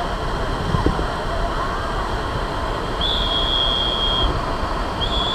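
Steady rushing roar of river rapids, with two steady high tones about a second long each, about three and five seconds in.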